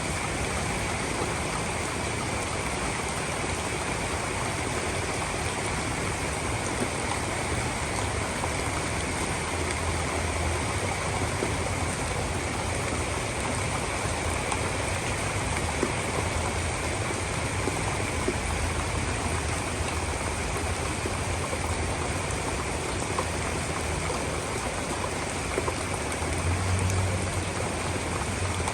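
Heavy rain pouring down in a steady hiss, with a low rumble swelling briefly about ten seconds in and again near the end.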